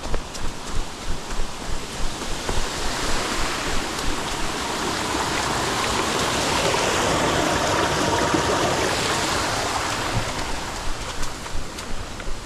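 Footsteps on a muddy trail, then the rush of a stream that swells for several seconds and fades again as it is passed, with the footsteps coming back near the end.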